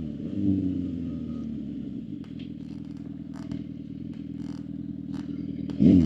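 Suzuki GSX-R750's inline-four engine running at low revs, then revving up sharply near the end with the pitch swooping up and down. A few faint clicks sound along the way.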